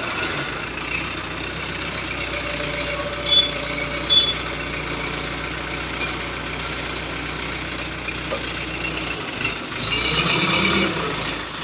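Diesel engine of a hydra crane running steadily while the crane lifts a heavy load, with two short high beeps a few seconds in. The engine grows louder for about a second near the end.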